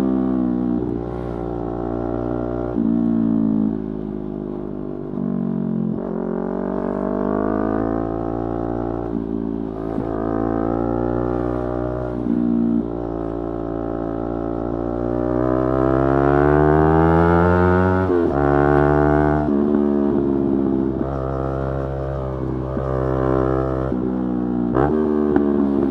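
Yamaha YZF-R3's 321 cc parallel-twin engine under way, its pitch rising and falling with the throttle and stepping sharply at gear changes. In the second half the revs climb in one long pull, then drop suddenly at an upshift.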